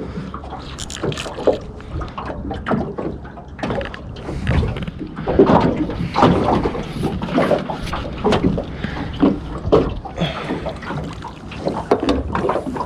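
Irregular knocks, clatter and handling noises in a small fishing boat as a cuttlefish is brought in on a squid jig, over a steady wash of water and wind on the microphone.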